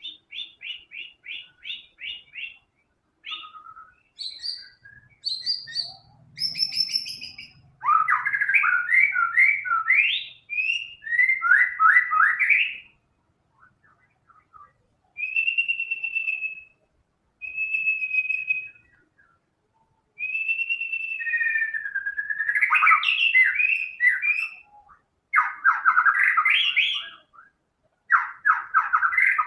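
White-rumped shama singing a long, varied song: runs of quick repeated notes, clear drawn-out whistles, and fast rattling trills, broken by short pauses between phrases. It is running through its full repertoire of learned phrases (isian).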